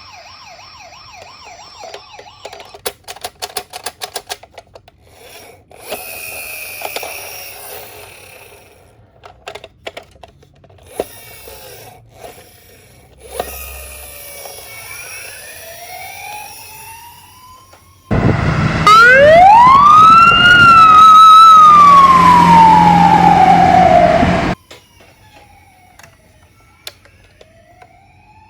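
Toy emergency-vehicle siren sounds: a faint warbling siren at first and a quick run of clicks, then, loudest, a single siren wail that rises and slowly falls for about six seconds, starting and stopping abruptly.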